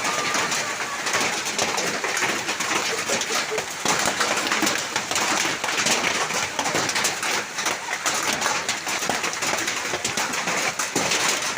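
Hail and rain pelting down hard: a dense, steady clatter of many small impacts.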